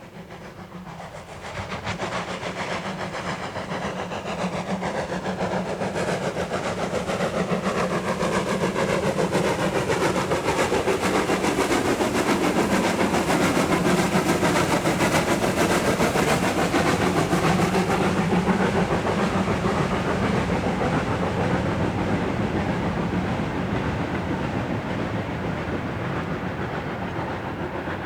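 A steam-hauled train passing by: the locomotive and carriages clatter along the rails. The sound swells in about two seconds in, is loudest midway and slowly fades as it moves away.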